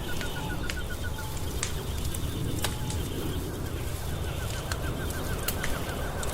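Wood fire crackling with many sharp pops over a low rumble. A fast trill of short high notes, about eight a second, sounds at the start and again over the last second and a half.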